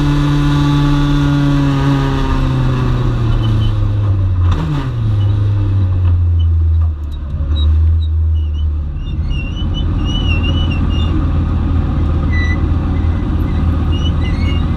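Dwarf race car's motorcycle-derived engine, heard onboard, with its pitch falling over a few seconds as the car slows. It then settles into a low, steady idle.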